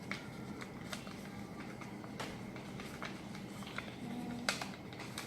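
Square sheet of paper being folded and creased by hand: scattered short crinkles and clicks of paper, a few each second, strongest about four and a half seconds in.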